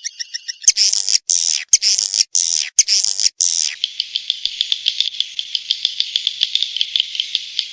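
Recorded edible-nest swiftlet calls of the kind played to lure swiftlets: rapid high twittering chirps. About a second in comes dense buzzy chatter broken by several short dead gaps, then a fast even run of clicky chirps.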